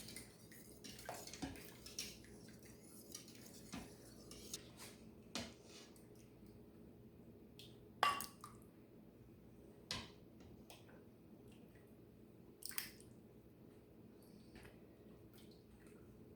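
A metal utensil stirring and scraping in the stainless steel inner pot of an Instant Pot, with scattered light clinks; the sharpest clinks come about eight, ten and thirteen seconds in.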